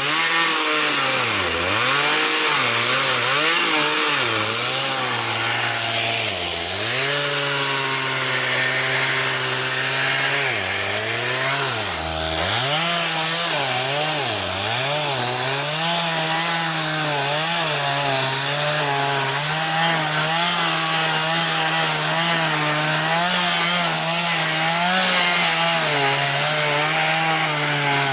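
Two-stroke chainsaw running at high revs and cutting wood, its engine note dipping again and again as the chain takes load and picking back up between cuts.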